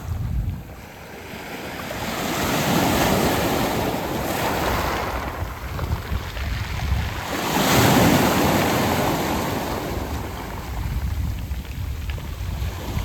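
Sea waves washing onto a round-pebble (mongdol) beach. Two waves surge in, one building from about two seconds in and a bigger one about eight seconds in, over a steady low rumble.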